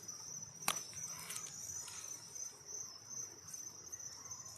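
Crickets chirping steadily in a high, even trill, with a single sharp click about a second in.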